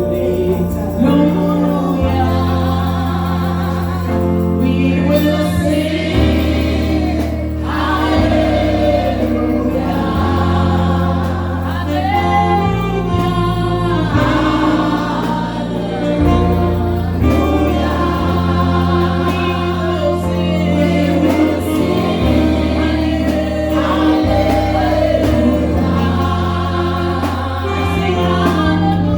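Gospel choir singing with keyboard and bass accompaniment, the bass moving through sustained chord changes every couple of seconds.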